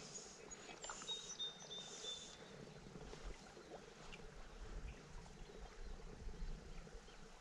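Quiet streamside ambience with a faint water sound, and a few thin, high chirps of a small bird in the first two seconds or so.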